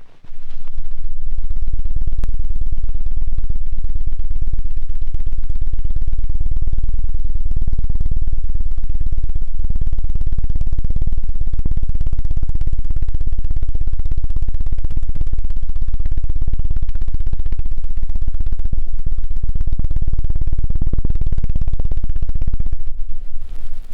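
Loud, rapid, fluttering whirr of an ASMR 'helicopter' ear-cleaning trigger: a tool is spun or flicked fast against a microphone's ear, making a deep beating drone. It starts right at the beginning and cuts out about a second before the end.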